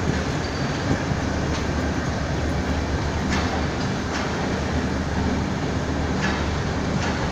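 Bangladesh Railway intercity passenger coaches rolling past on the track: a steady rumble of wheels on rail, with a sharp clack every second or two as the wheels cross rail joints.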